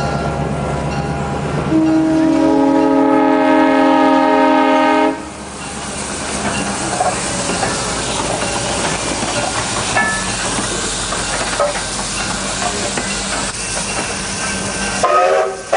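A train sounds a long chord blast lasting about three seconds, then the passenger train rolls past with a steady rumble and wheels clattering over the rail joints.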